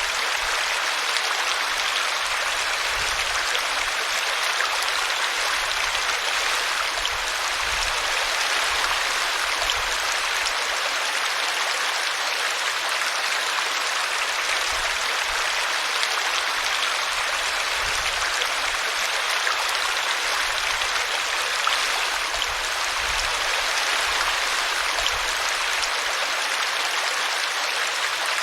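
A small brook flowing and splashing over a tree root: a steady rushing babble of water.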